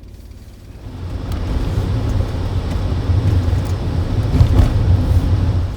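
A car being driven: a loud low rumble of engine and road noise that swells about a second in and then holds steady.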